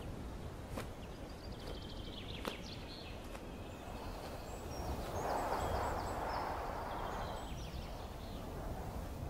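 Birds giving short high chirping calls in two bouts over a steady low rumble, with a few sharp clicks and a rushing noise that swells in the middle and fades.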